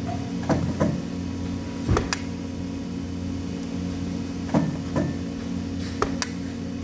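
Scattered sharp knocks and clicks, in pairs, over a steady low hum of workshop machinery.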